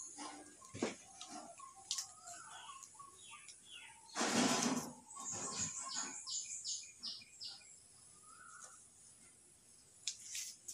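Small birds chirping, with a quick run of about five high notes around six seconds in. A loud brief rustle about four seconds in.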